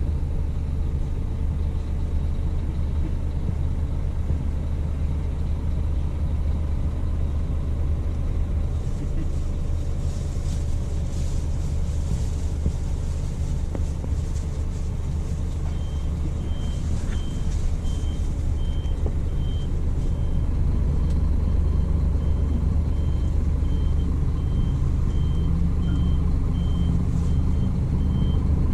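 Scania coach's diesel engine running with a steady low drone that grows louder about two-thirds of the way through. A reversing alarm starts beeping at a steady pace about halfway through.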